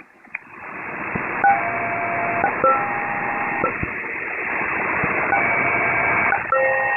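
SELCAL tones sent over HF aviation radio through steady static hiss: two one-second pulses of paired steady tones with a short gap, sent twice, the second time starting about five seconds in. This is the ground station's selective-calling check to a JetBlue flight.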